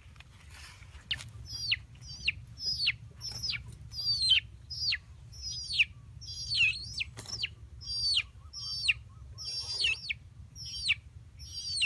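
A bird calling over and over: sharp, steeply falling calls, a little under two a second, over a faint low rumble.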